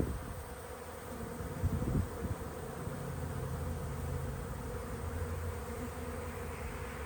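Honey bees buzzing around an open hive: a steady hum. There are a few low bumps about two seconds in.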